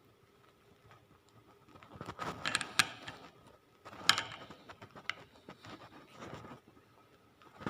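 Metal parts being handled on a workbench: a cluster of clinks and light rattles about two seconds in, a sharp knock about four seconds in, and a few smaller ticks after.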